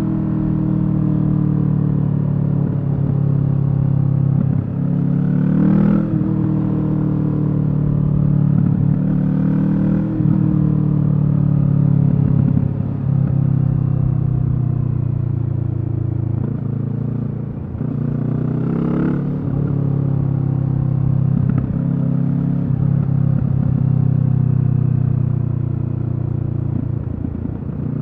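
Kawasaki Z650 parallel-twin engine through a Leo Vince EVO carbon aftermarket exhaust, running under way. The engine note holds steady between several sharp rises and drops, about 6, 10 and 19 seconds in.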